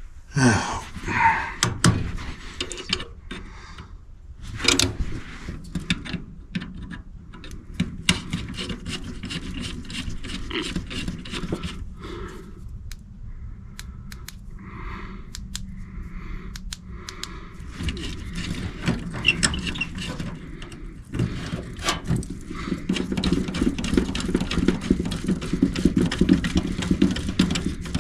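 Hand work on an electric furnace's wiring: scattered clicks, light knocks and scraping of tools and wires against the metal cabinet and terminals.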